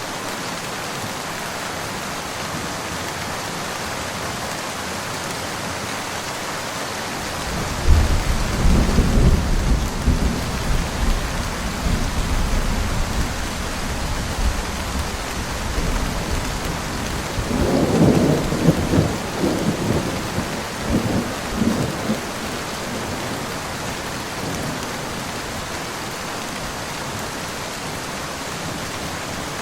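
Steady rain falling, with rolling thunder: a deep rumble breaks in suddenly about a quarter of the way through and rolls for several seconds, then a second, louder peal rumbles in bursts a few seconds later and dies away, leaving only the rain.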